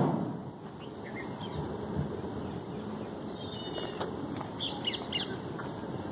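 Small birds chirping in short high calls, with a quick run of them between about three and five seconds in, over a steady low background hum. A couple of soft knocks come through as well.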